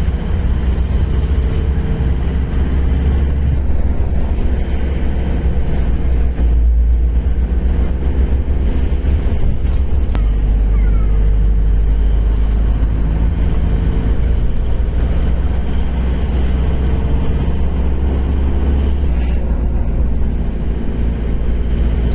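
Steady engine and road rumble of a moving motor vehicle on the road, with a low engine hum.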